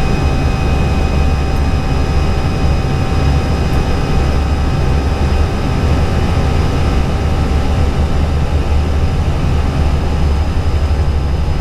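Steady cockpit noise of an Airbus A320 climbing at climb thrust just after takeoff: a constant low rumble of airflow and engines with a few faint steady whines above it.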